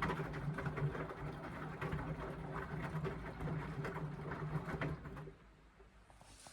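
Indesit washing machine turning its drum during an Express wash cycle: a low motor hum with the wet load swishing and knocking, which stops suddenly about five seconds in as the drum pauses.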